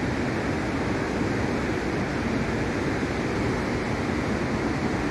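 Steady, unbroken roar of a huge waterfall, the dense rushing noise of the Iguazu Falls.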